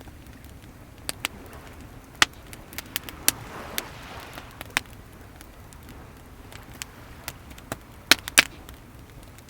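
Wood bonfire crackling, with scattered sharp pops, the loudest about two seconds in and a pair near the end, over a soft steady wash of waves that swells briefly in the middle.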